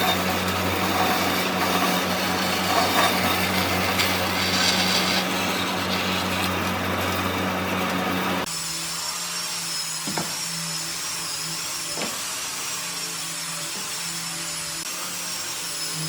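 Power tools working wood: a steady machine noise with a low hum and a rasping cut, which changes abruptly a little past halfway to a different tool with a wavering high whine and two sharp knocks.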